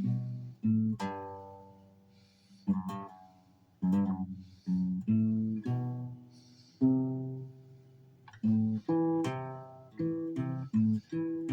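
Guitar played note by note in practice runs of single plucked notes, with a held note about a second in that rings out and fades, and another near the seven-second mark before quicker runs resume.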